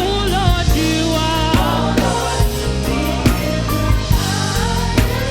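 Gospel worship band music: a drum kit keeps a steady beat over sustained bass and keyboard chords, with a singer's wavering held note about half a second in.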